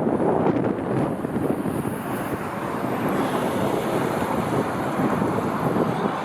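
Wind rumbling on the microphone over the steady noise of a jet aircraft, with a faint high engine whine that rises and then falls partway through.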